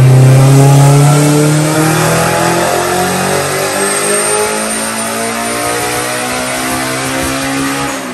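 Turbocharged Honda S2000 four-cylinder engine under full throttle on a chassis dyno, its revs climbing steadily through a power pull. The sound drops away abruptly at the end as the pull finishes.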